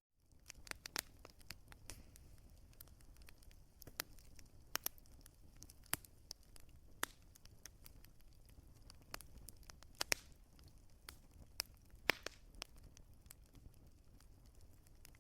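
Wood fire crackling, with sharp pops at irregular intervals over a faint low hiss. The loudest pops come about ten and twelve seconds in. The sound drops out for an instant right at the start.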